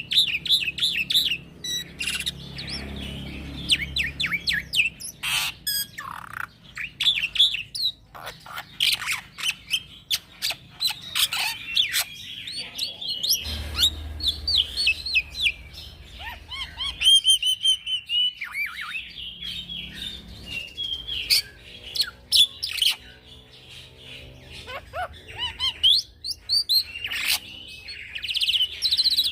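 Young black-winged myna (jalak putih) singing energetically in a long unbroken run, mixing quick sweeping whistles and chirps with harsh rasping notes.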